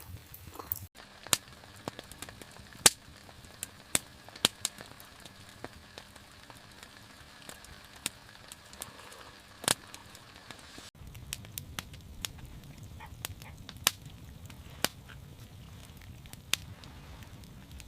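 Wood fire crackling, with irregular sharp pops and snaps over a faint steady hiss. A low rumble joins the background partway through.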